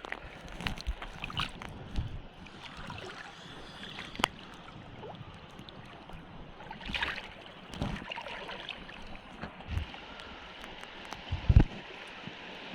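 Shallow seawater sloshing and splashing as a drag net is hauled toward the beach, with wind on the microphone and scattered knocks. A sharp thump comes near the end.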